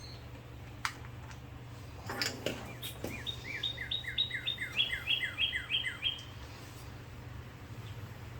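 A bird singing a quick run of about a dozen down-slurred chirps lasting some three seconds, starting about three seconds in. A few clicks and knocks come just before it, and a steady low hum runs underneath.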